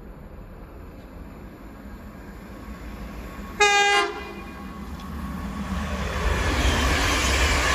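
Class 323 electric multiple unit sounds one short horn blast about a third of the way in while still in the distance. Its running noise, wheels on rail and body rush, then grows quickly louder as it passes through the station at speed.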